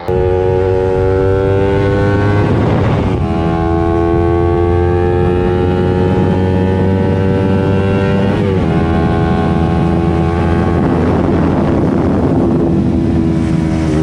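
Yamaha YZF-R3's parallel-twin engine through an aftermarket exhaust, run hard under acceleration: the note climbs steadily, drops at an upshift about three seconds in and again about eight and a half seconds in, then climbs again.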